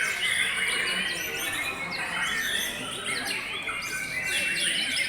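Many white-rumped shamas singing at once in a song contest, a dense chorus of overlapping whistles, chirps and quick rising and falling notes.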